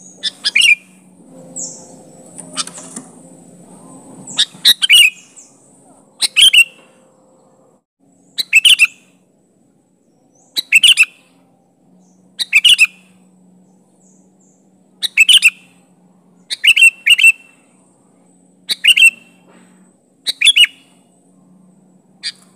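Sooty-headed bulbul (kutilang) calling: short, loud phrases of a few quick notes, repeated about every two seconds. A faint low hum lies underneath.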